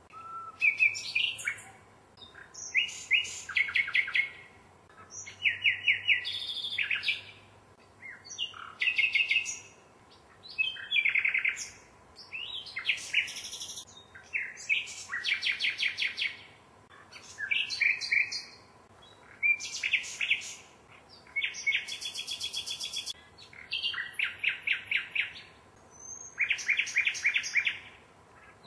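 Common nightingale singing: a steady run of short, varied phrases, many built of fast repeated notes and trills, each about a second long with brief pauses between.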